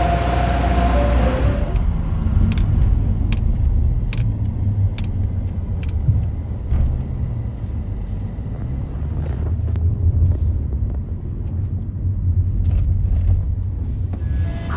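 Low, steady rumble of a motor vehicle's engine, with scattered sharp clicks. An ice cream truck's music-box jingle breaks off in the first couple of seconds and starts again near the end.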